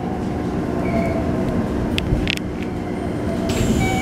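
Interior running sound of a Keikyu New 1000 series train with Toyo IGBT-VVVF inverter drive, rolling slowly into a station: a steady low rumble with a constant hum. There are a few light clicks partway through, and a hiss sets in near the end as the doors begin to open.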